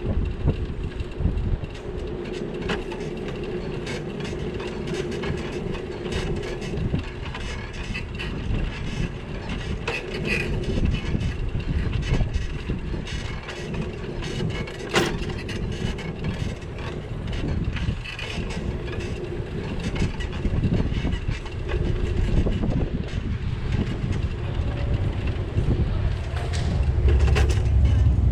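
Continuous rumble and rattle of riding a bicycle through city streets, with many small knocks and clicks and one sharper click about halfway. A deeper rumble grows louder near the end.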